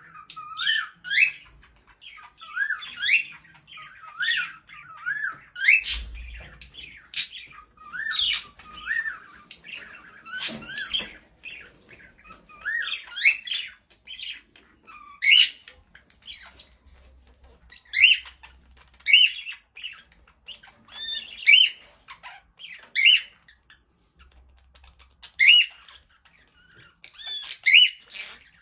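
Birds calling over and over: short notes that sweep upward in pitch, coming roughly one a second throughout.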